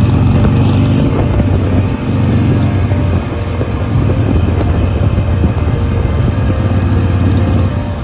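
Swaraj 735 tractor's diesel engine running loudly and steadily. It drops away just before the end.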